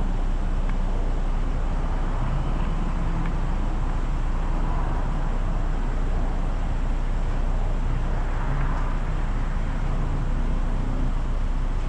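A waiting car's engine idling: a steady low hum under an even haze of traffic noise.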